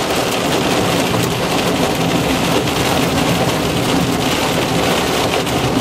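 Heavy rain falling on a moving car, with steady road and engine noise underneath.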